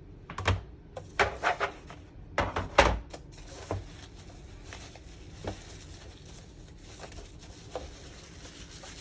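Plastic diorama wall pieces being handled and set down: a quick run of clicks and knocks in the first three seconds, the loudest near the end of that run, then only a few light taps.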